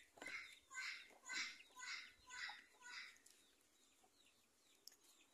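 A bird calling in a faint series of about six short calls, roughly two a second, that stop about three seconds in.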